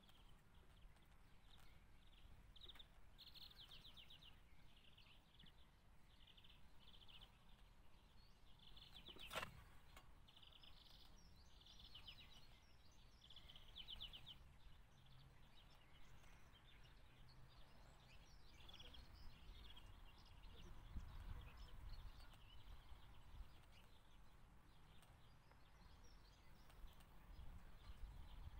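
Near silence, with faint bird trills in the background for the first half and a single sharp click about nine seconds in.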